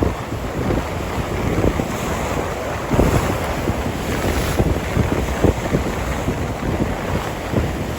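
Strong storm wind buffeting the microphone: a loud, continuous low rumble with irregular gusts.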